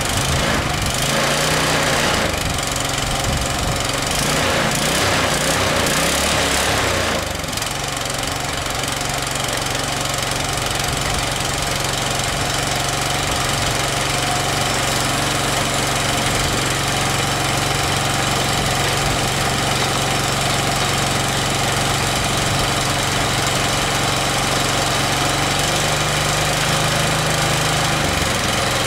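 Small engine running steadily, with extra clatter over it for the first seven seconds or so.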